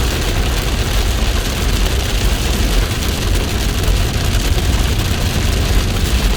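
Heavy rain falling: a loud, steady, dense hiss with a deep rumble underneath.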